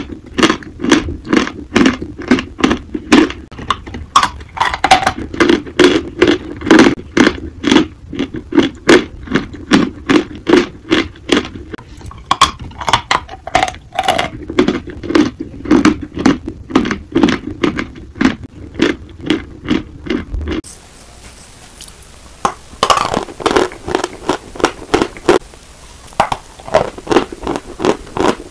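Close-miked chewing of chalk: a steady run of crisp, gritty crunches, a couple or more each second. About two-thirds of the way through, the crunching stops for a second or two, then starts again.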